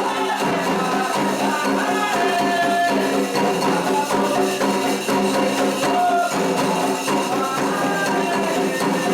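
Candomblé ritual music: hand percussion with a tambourine- or shaker-like rattle keeping a steady rhythm under melodic lines.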